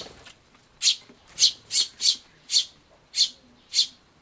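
Eurasian tree sparrow chirping: seven short, high chirps at an uneven pace, a third to two-thirds of a second apart.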